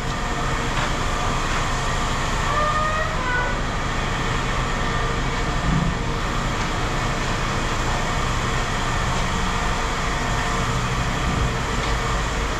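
A vehicle engine running steadily: a constant low rumble under an even noise.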